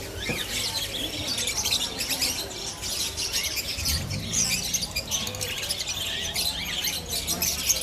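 Many caged birds chirping and tweeting at once, a dense, continuous chorus of short overlapping high calls.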